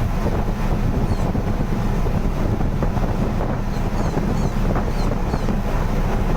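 Wind buffeting the microphone: a steady, heavy low rumble, with faint short high chirps now and then.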